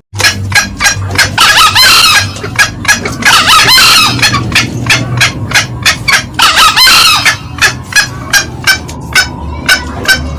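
Green junglefowl calling: a rapid run of sharp, clucking cackles, about three a second, broken three times by a louder, harsher crow lasting about a second.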